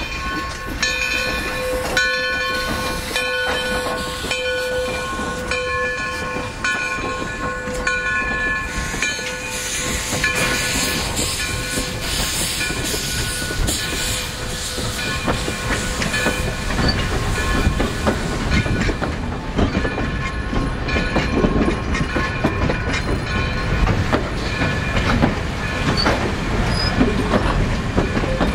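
Passenger train rolling past close by: the steady rumble and clickety-clack of a caboose and heavy steel coaches on the rails. A bell rings repeatedly through the first half and fades away.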